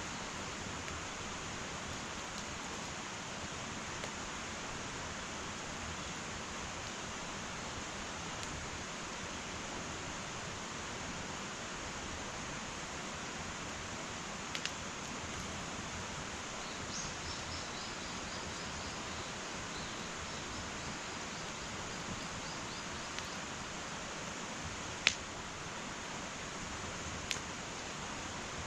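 Wood fire burning in an irori sunken hearth: a steady soft hiss with a few sharp crackles, the loudest about 25 seconds in.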